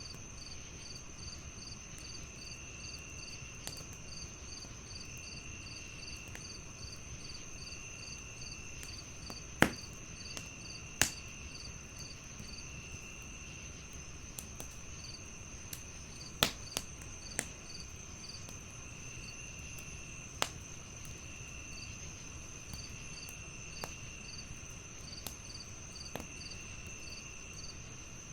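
Crickets chirping in a steady pulsing chorus, with a wood fire crackling underneath and a handful of sharp pops, the loudest about ten and sixteen seconds in.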